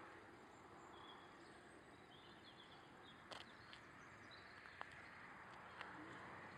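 Near silence: faint outdoor background noise with a few faint bird chirps and a few small clicks.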